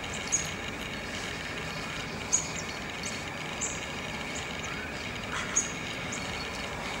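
Short, high bird chirps every second or two over a steady chorus of insects.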